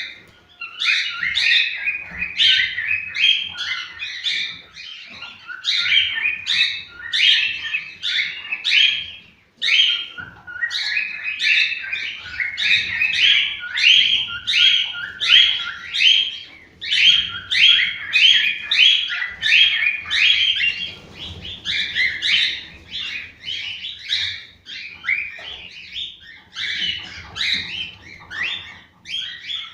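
Cockatiels chirping and whistling in a steady stream of short, quickly repeated calls, the kind of song played to stimulate cockatiels to breed.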